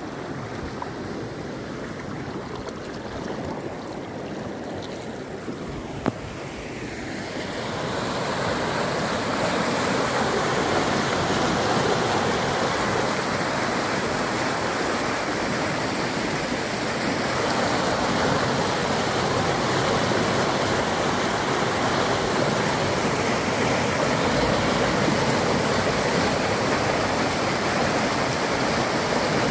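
River in flood after heavy rain, its water rushing steadily; the rush grows louder about seven seconds in. A single sharp click about six seconds in.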